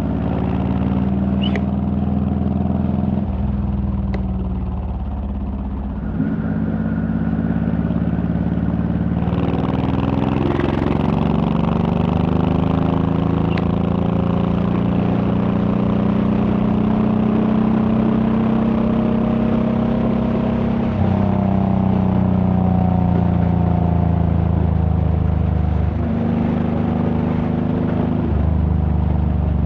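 Honda VTX1800's 1800 cc V-twin engine running while riding, its note stepping up and down several times with throttle and gear changes and climbing slowly for a stretch in the middle. Wind rush grows louder from about nine seconds in.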